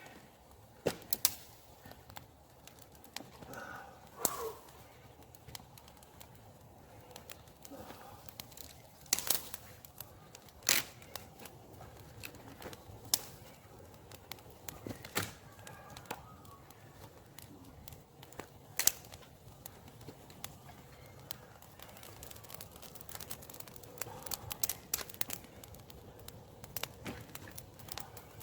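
Campfire of very dry wood crackling, with irregular sharp pops, a few of them loud, and a quicker run of small crackles near the end.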